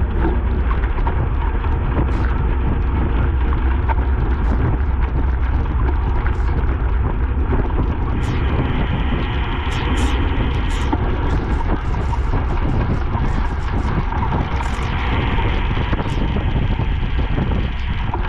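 Wind rushing over the microphone of a camera carried on a racing bicycle, with tyre hiss on a wet road and a few scattered clicks.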